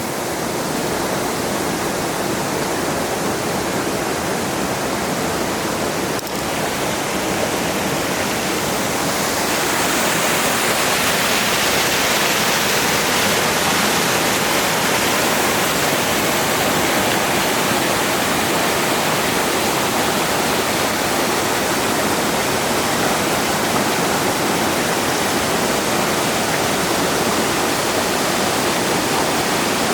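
Cascading waterfall rushing steadily, heard at close range. It grows louder and brighter about a third of the way through and then holds.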